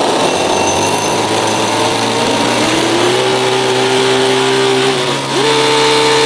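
Miniature model V8 and V12 engines running together on nitrous with a steady high-pitched whine. The revs climb about two and a half seconds in, sag briefly near five seconds, then jump higher and hold.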